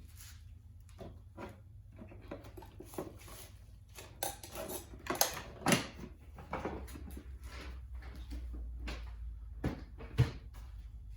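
Hands rummaging through small parts and hardware: scattered clicks, knocks and rattles of objects being moved and set down, with sharper knocks about five and six seconds in and one near the end, over a low steady hum.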